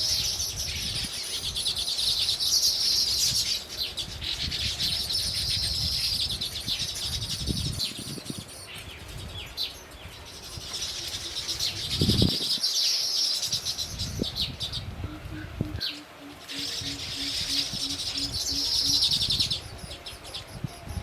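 Small birds chirping rapidly and high, in repeated bursts of two to three seconds each with short gaps between them.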